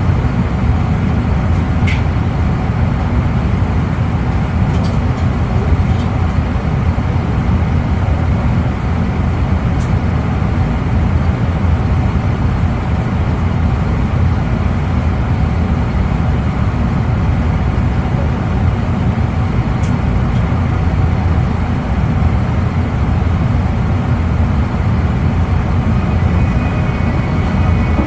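Cabin noise inside an E259 series Narita Express motor car: a steady, loud low rumble with a few faint clicks. A set of high steady tones comes in near the end.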